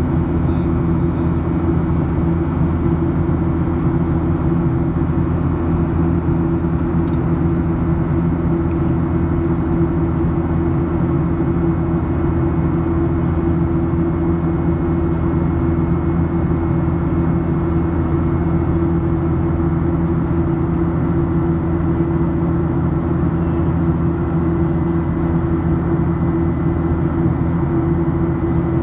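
Steady in-flight cabin noise of a Boeing 737-800 heard from a forward window seat: the drone of its CFM56 turbofan engines with a few fixed low hums under the rush of air, unchanging throughout.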